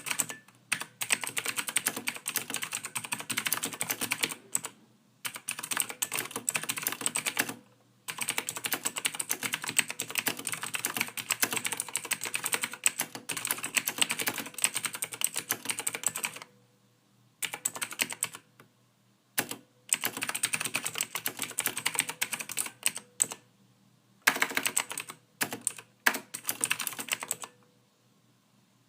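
Computer keyboard being typed on in fast, continuous runs of keystrokes broken by short pauses. The typing stops about a second before the end.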